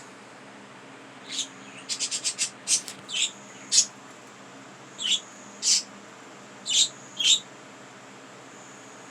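Pet budgerigar chirping in short, sharp calls: a quick run of about five around two seconds in, then single and paired chirps at intervals.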